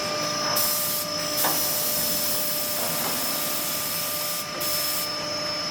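Six-sided CNC panel drilling machine at work boring the many edge holes in a furniture panel: a steady high spindle whine with a rough hiss of drilling that starts about half a second in and stops near the end.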